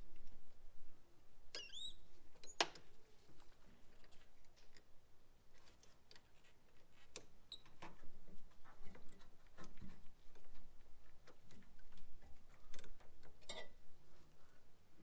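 Scattered light clicks and clinks of hand tools and parts being handled during an engine-bay teardown, with a brief squeak a little under two seconds in.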